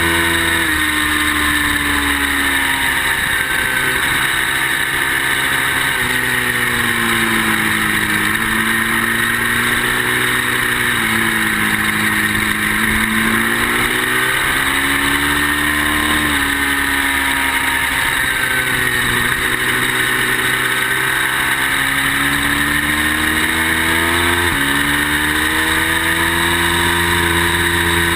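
Ducati sport motorcycle engine at speed on a race track, its pitch climbing under acceleration and dropping and jumping with gear changes and braking several times, over heavy wind rush. The owner says the bike was not running well.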